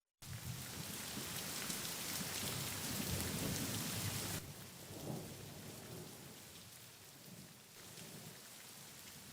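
Heavy rain with a deep rumble of thunder, cutting in suddenly just after the start. The thunder dies away about four seconds in, leaving steady rain.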